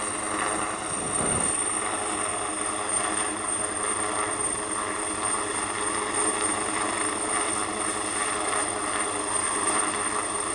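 Rescue helicopter hovering close by during a winch rescue: a steady, unbroken rotor and engine noise.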